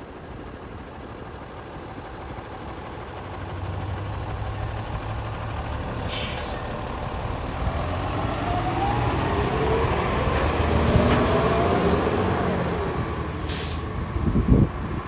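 Diesel engine of a 2012 Spartan MetroStar fire engine, growing louder as the truck comes closer and its engine pitch glides up and down. There are two short hisses, about six seconds in and near the end, and gusts of wind on the microphone at the very end.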